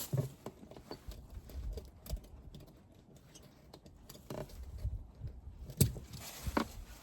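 Scattered light clicks and taps, with one sharper knock about six seconds in, over a low rumble.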